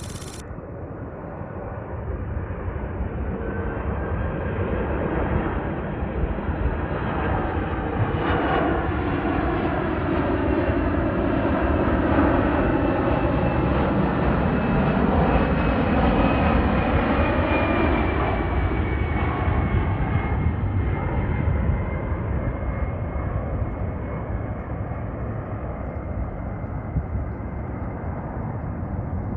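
Boeing 767-300ER twin-engine jetliner passing by on landing approach. The jet engine noise builds to a peak about halfway through, then fades as the aircraft moves away, with a whining tone that slides down in pitch as it passes.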